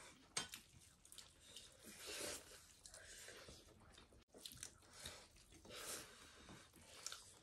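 Faint chewing and wet mouth sounds of someone eating sambhar, in a few soft swells spread through the stretch.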